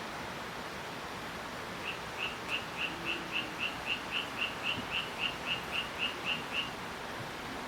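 A cricket chirping in an even series of short high chirps, about three to four a second, starting about two seconds in and stopping about five seconds later, over a steady hiss.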